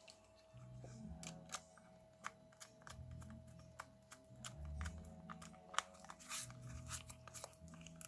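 Scattered small clicks and taps of hand work on a cassette Walkman's small parts, over faint background music with low held notes.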